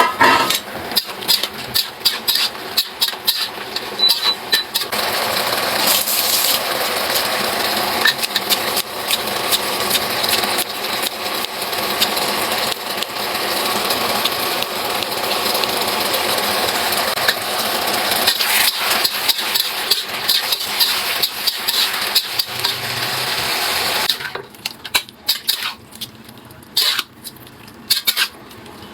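Food sizzling in a wok, stirred with a metal spatula that scrapes and clacks against the pan. The sizzle drops away about 24 seconds in, leaving scattered knocks.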